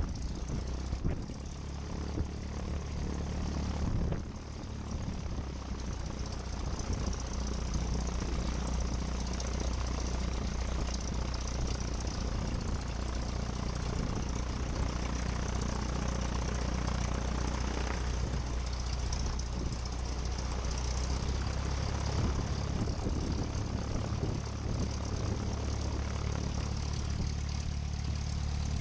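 Cessna 172 Skyhawk's piston engine and propeller running steadily at idle, heard through the cockpit headset audio as a constant low hum with hiss on top.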